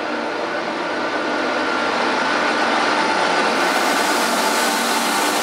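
SNCF BB 26000 electric locomotive hauling Corail coaches, drawing up and passing close by on the station track. It makes a steady, growing rail noise with a few steady whining tones, and a sharp hiss joins about three and a half seconds in as the locomotive comes alongside.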